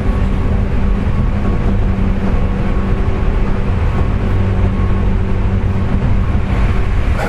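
Onboard running noise of a JR West 201 series electric train car at speed: a steady rumble of wheels on rail with a steady whine, the "jet sound" of traction-motor bearings damaged by electrical pitting.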